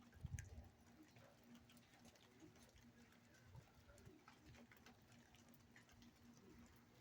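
Near silence, with faint, irregular ticking of raindrops and a low, steady hum.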